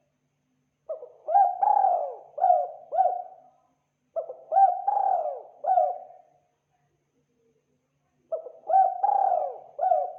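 Spotted dove cooing: three phrases of four or five coos each, each coo bending up and down in pitch, the phrases about three seconds apart.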